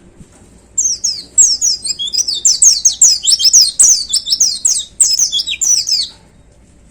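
White-eye (pleci) singing a loud, fast run of quick, high, mostly falling notes. It starts about a second in and stops a little before the end.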